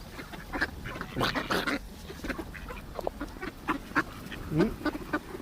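A flock of ducks quacking and chattering in short, scattered calls, busiest early on, with one rising call near the end.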